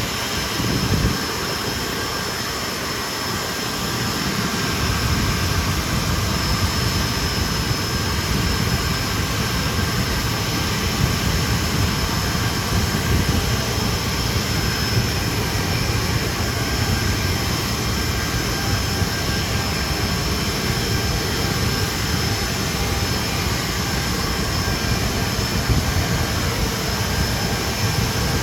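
Hawker Siddeley Nimrod's Rolls-Royce Spey turbofan jet engines running, a steady high whine over a low rumble that grows louder about four to five seconds in.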